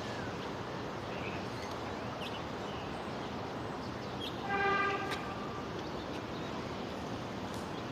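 Steady outdoor background noise, with a single short horn toot about halfway through.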